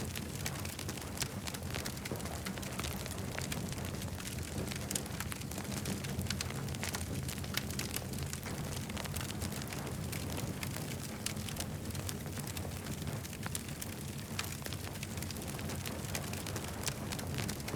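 Campfire burning, with frequent small sharp crackles and pops over a steady low rumble.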